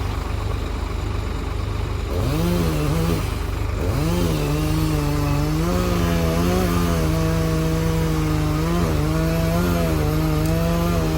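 Old tractor backhoe's engine working hard, its revs dropping and climbing again twice in the first few seconds, then holding high with small wavers under load.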